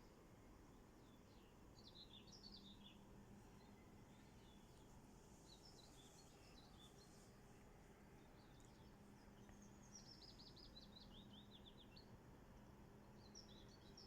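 Faint songbirds singing short phrases every few seconds, one of them a fast trill of repeated notes, over a faint steady low hum.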